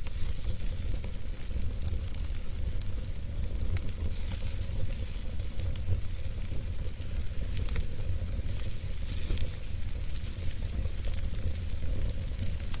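Wood fire burning in a fireplace: a steady low rumble and hiss with frequent small crackles and pops scattered throughout.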